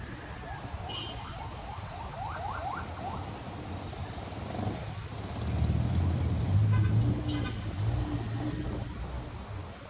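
City street ambience: a low traffic rumble that swells for a few seconds about halfway through as a vehicle passes close by. A quick run of short rising chirps sounds about two seconds in.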